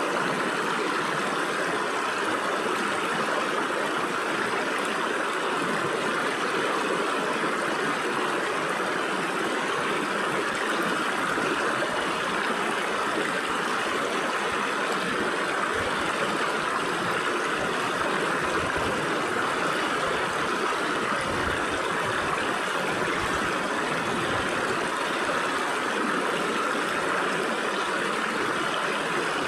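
Stream water flowing steadily through gaps between rocks, an even rushing and gurgling with no breaks.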